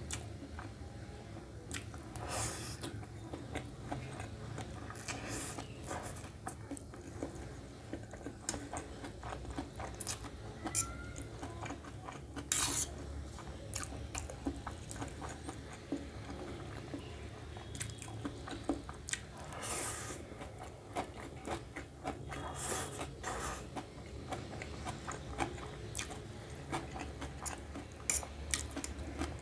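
A person chewing mouthfuls of vegetable chow mein, with a metal fork clinking and scraping against a steel plate now and then.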